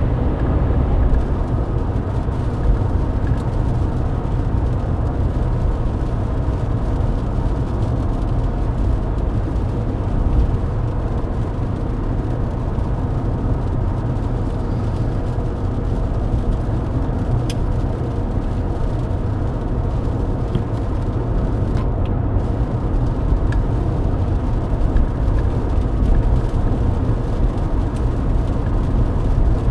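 Steady in-cabin drone of a Mercedes-Benz W124 cruising at highway speed in the rain, mostly deep engine and tyre noise on the wet road, with a couple of faint ticks.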